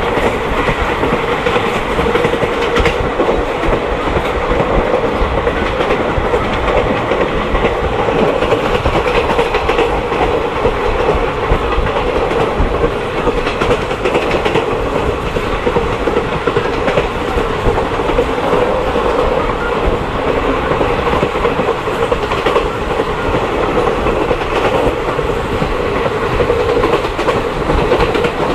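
Passenger train running steadily on the rails, a continuous rumble with a steady hum and occasional clicks of the wheels over rail joints.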